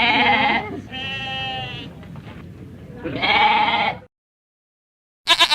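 A farm animal calling in three drawn-out, wavering cries, the middle one quieter, followed by a short silence and the first sharp bark of a dog right at the end.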